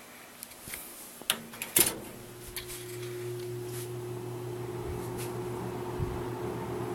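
A 1975 Kmart 20-inch box fan switched on: a couple of sharp switch clicks, then its motor starts with a steady low hum and a steady higher tone, and the level slowly rises as the blades spin up.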